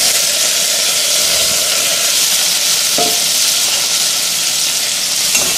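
Diced carrots frying in hot melted butter in a stainless steel pot, a steady loud sizzle.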